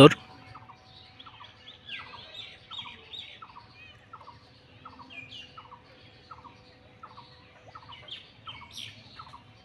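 Birds calling: one repeats a short, slightly falling note about twice a second, while others chirp higher and irregularly.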